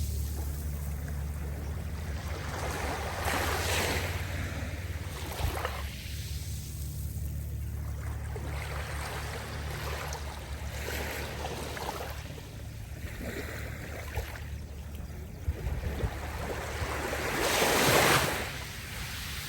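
Sea waves washing in and breaking in repeated surges, the biggest near the end, over a steady low hum.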